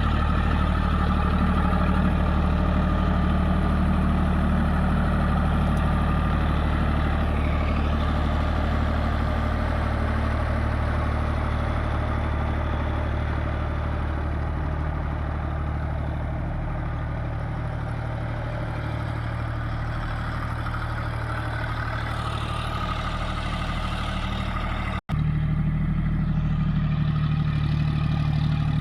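John Deere 5050D tractor's three-cylinder diesel engine running steadily. It cuts out for an instant about 25 seconds in and comes back with a slightly higher engine note.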